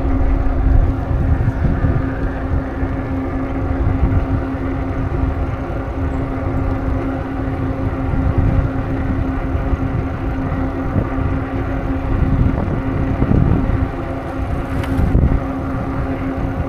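Wind buffeting the microphone of a camera riding on a moving bicycle, with a steady hum that holds one pitch throughout.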